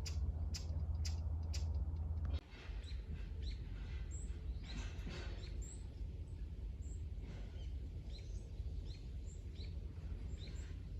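Small birds chirping in many short, quick calls. Before them, about two seconds in, a low rumble with regular clicks cuts off abruptly.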